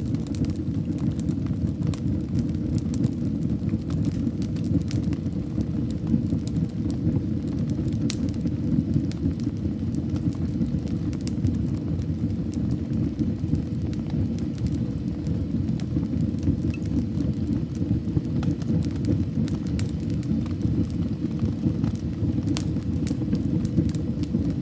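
Fire burning in a fireplace: a steady low rumble of flames with scattered sharp crackles and pops from the burning wood, a few of them louder than the rest.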